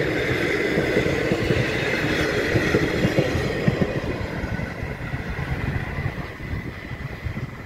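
Passenger train rolling away along the track, wheels running on the rails with a low rumble and clatter, the sound fading over the last few seconds as it recedes.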